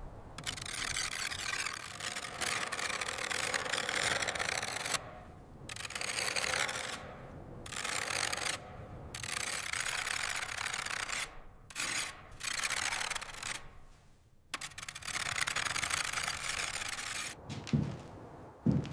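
A tool scraping across wood in a series of long strokes, each lasting one to several seconds with short pauses between. A couple of dull knocks come near the end.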